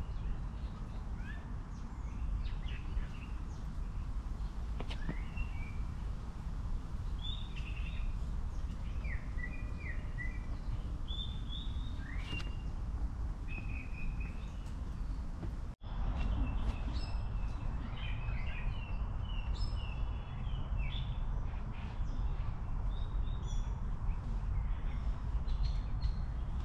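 Birds chirping in short scattered calls over a steady low rumble of outdoor background noise, with a momentary break about sixteen seconds in.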